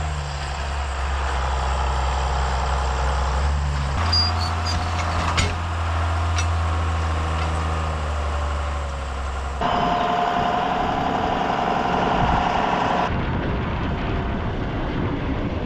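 Tractor engines and silage-chopping machinery running steadily. The sound changes abruptly about four, ten and thirteen seconds in.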